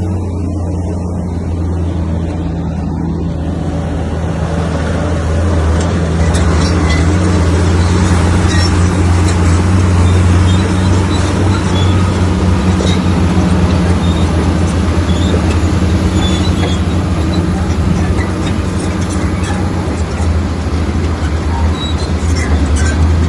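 Heavy diesel engine of an earthmoving machine running steadily under load, with a clatter and scraping of dirt and stone building up from about four seconds in.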